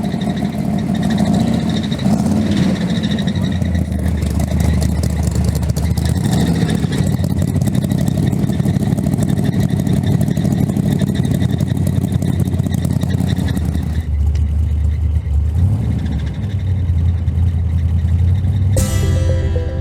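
A car engine running, its low, steady pulsing heavy in the bass; about fourteen seconds in it settles to a lower, smoother note. Music comes in near the end.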